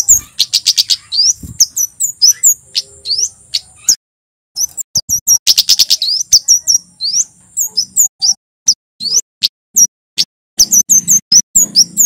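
Male scarlet-headed flowerpecker (kemade jawa) singing a rapid run of sharp, very high chips and short rising and falling notes, with two fast trills. The song breaks off briefly about a third of the way in, and a thin steady high tone sits under the calls for several seconds.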